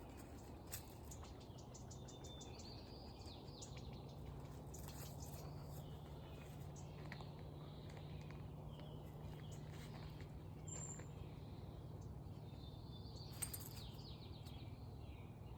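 Faint outdoor ambience: small birds chirping now and then over a low steady hum, with a sharp tick about a second in and another near the end.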